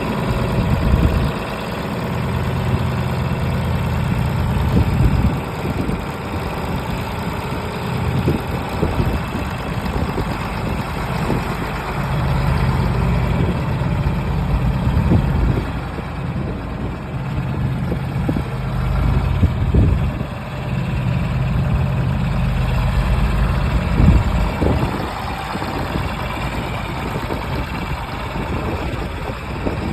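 Tractor engine idling steadily with a low, even note.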